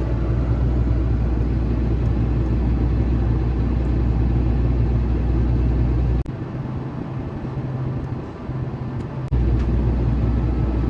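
Tractor engine running steadily with a low hum while the planter is folded. About six seconds in, the deepest rumble drops away after a click and returns with another click some three seconds later.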